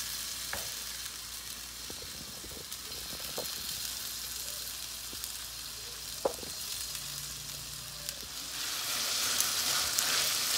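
Chicken strips sizzling in oil and their own juices in a wok. A wooden spatula stirs them and knocks sharply against the pan a few times. The sizzle is soft while the released water is still boiling off, and grows louder and brighter near the end.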